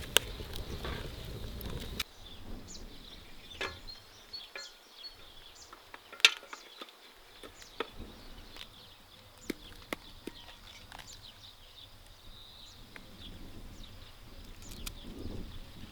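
Small scattered snaps and clicks of garden vegetables and leaves being picked by hand, with a faint outdoor background of birds or insects. A louder low rumble of outdoor noise cuts off abruptly about two seconds in.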